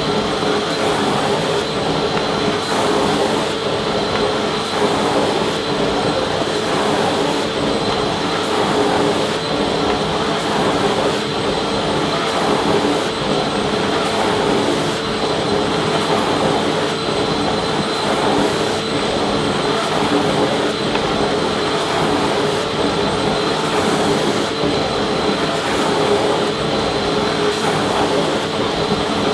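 Vacuum cleaner running steadily: an even rush of air with a constant motor whine, no change in speed.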